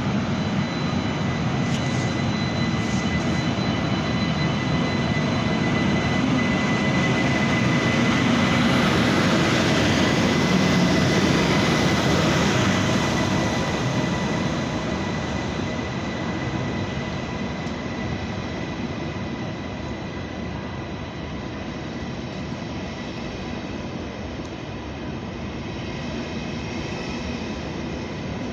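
A train running through the station. Its steady rumble carries several held high tones, builds to its loudest about ten seconds in, then slowly fades.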